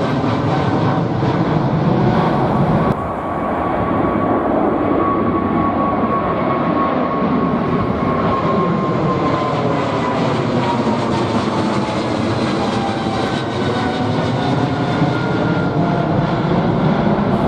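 Jet airliner engines running loudly: a steady roar with a whine that slowly drops in pitch as the plane passes. There is an abrupt change about three seconds in, where one clip cuts to the next.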